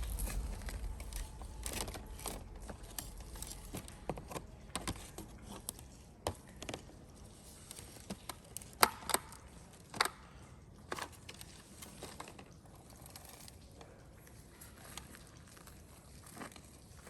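Wood campfire crackling, with irregular sharp pops and snaps; the loudest pops come about nine and ten seconds in.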